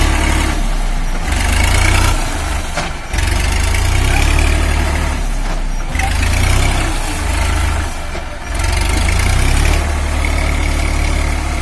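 Massey Ferguson 5245 DI tractor's diesel engine running hard in a tractor stuck in mud, its deep sound swelling and easing back every second or two as the driver works to free it.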